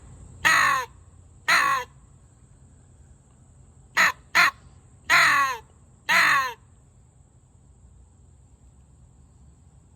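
Hand-blown PRIMOS crow call sounding a crow food call. It gives two long caws, then about four seconds in two quick caws followed by two long ones, each caw falling in pitch.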